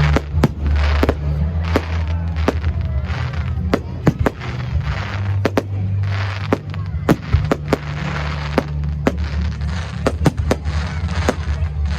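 Consumer fireworks going off: a quick, irregular run of sharp cracks and pops, with patches of hissing crackle between them.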